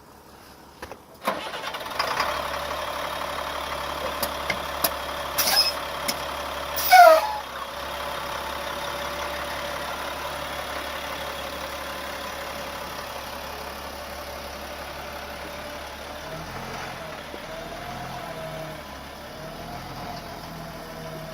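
2002 Blue Bird school bus engine starting after a few clicks and settling into a steady idle. About seven seconds in there is a brief, loud squeal that falls in pitch.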